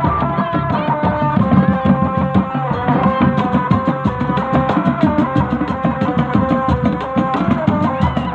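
Live traditional Javanese ensemble music: hand drums (kendang) beating a busy rhythm under a melody that moves in steps from note to note.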